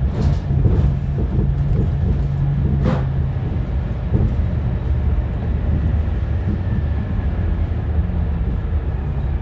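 Scania Enviro300 single-deck bus heard from inside the saloon: the diesel engine runs with a steady low rumble, carrying a held low tone for the first three seconds. A single sharp click comes about three seconds in.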